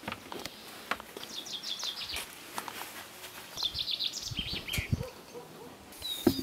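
A small bird singing two quick phrases of rapid, high repeated chirps, with a few scattered light knocks and clicks between them.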